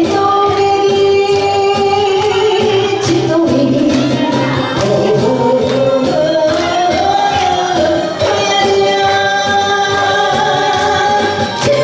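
A singer performs a Korean trot song over a backing track with a steady beat, holding long sung notes.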